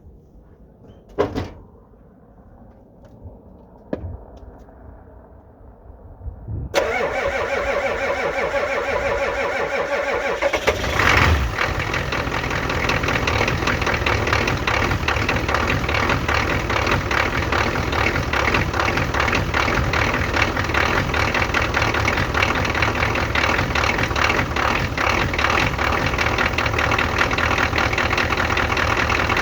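Two sharp knocks, then about seven seconds in a Ford 6.9-litre IDI V8 diesel is cranked by its starter, with a louder burst about eleven seconds in and a rapid, steady clatter after it. The engine is being cold-started in deep cold without working glow plugs, on starting fluid sprayed into the intake, and only barely catches.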